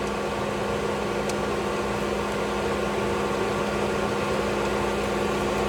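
A fan or motor running steadily: a constant hum with one strong low tone and fainter tones above it, unchanging throughout.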